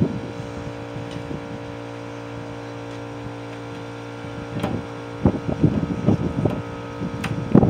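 A steady mechanical hum like a running engine, then, a little past halfway, a run of sharp knocks and clanks as metal parts of the scrapped boiler unit are handled.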